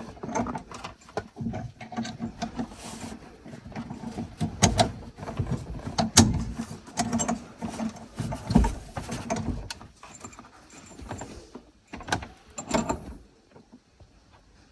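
Irregular clicks and knocks of tools and metal parts being handled, over a faint low hum, thinning out near the end.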